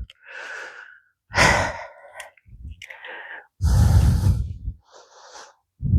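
A man breathing out hard three times close to the microphone, heavy strained exhales as he struggles with a stubborn part.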